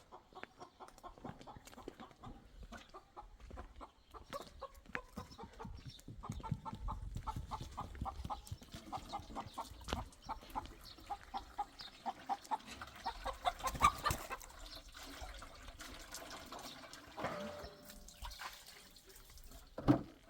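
Chickens clucking, with a run of short repeated clucks through the middle.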